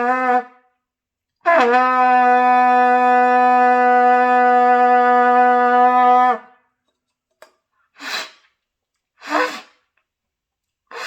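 Trumpet played by a beginner practising long tones: a low note trails off about half a second in, then the same note is held steady for about five seconds and stops. Near the end come three short, breathy puffs of air.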